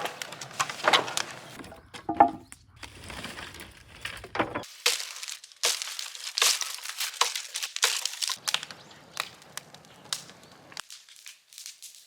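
A run of sharp cracks, crunches and knocks, like debris or wood being broken and handled. The background changes abruptly a few times, as short clips are cut together.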